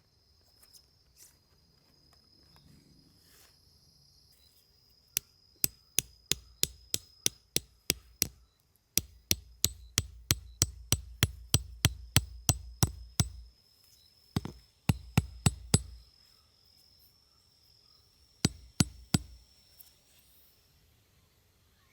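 A hammer striking in quick runs of blows, about three a second, each blow with a bright metallic ring, in four runs with short pauses between.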